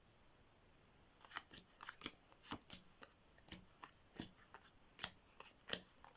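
A deck of playing cards being handled and laid out: a quick run of sharp card snaps and clicks, about two or three a second, starting about a second in.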